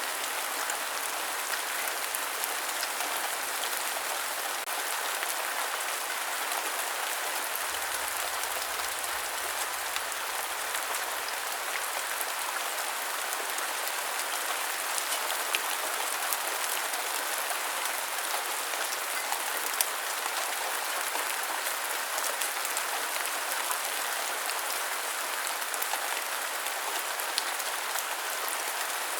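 Steady rain: an even hiss of falling rain with a few sharper drop ticks scattered through it.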